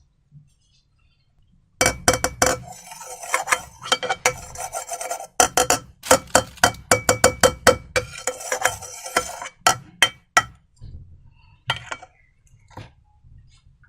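Slime being stirred and worked in a bowl: a dense run of sticky clicks and clinks starting about two seconds in and stopping about ten seconds in, then a few single clicks.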